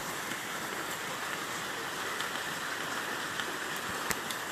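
Heavy rain falling steadily as an even hiss, with a few sharp drop taps near the end.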